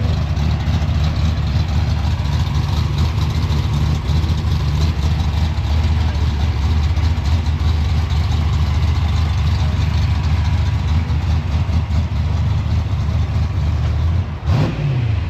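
Car engine idling close by with a deep, steady, loud rumble. It falls away right at the end.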